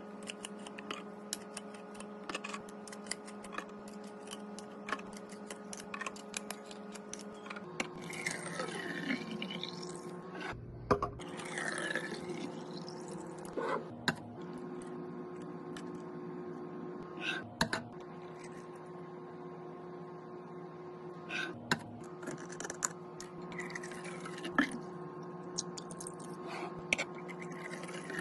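Drinks being handled and set into a mini fridge: a string of clicks, knocks and clinks of containers, with longer rubbing sounds about eight to thirteen seconds in and again around twenty-three seconds. A steady hum runs underneath and changes pitch about eight seconds in.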